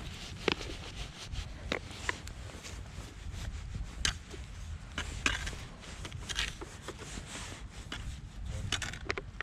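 A cardboard firework cake being handled and set in place: scattered rustles, scrapes and light knocks, over a steady low rumble.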